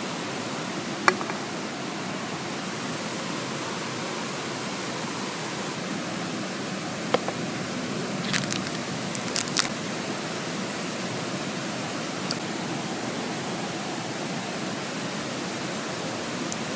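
Mountain stream rushing steadily, with a few short sharp clicks and ticks on top of it, a cluster of them around the middle.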